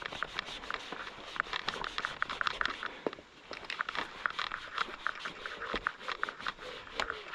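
Cloth wiping and rubbing waterless wash and wax over motorcycle bodywork and plastics: a run of irregular, quick scratchy strokes with a short pause about three seconds in.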